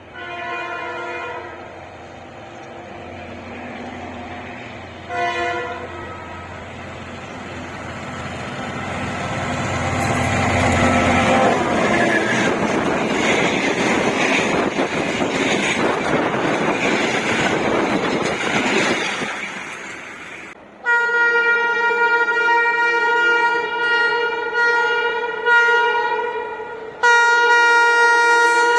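Diesel locomotive horn and a train passing. A short horn blast at the start and a brief one about five seconds in, then the train's rumble builds and passes. From about twenty-one seconds on come long, loud horn blasts, broken once near the end.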